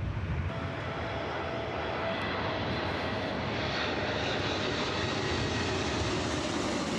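Jet airliner's engines running at high thrust, climbing away on a go-around after an aborted landing: a steady rushing engine noise with a thin whine that drifts slowly lower in pitch.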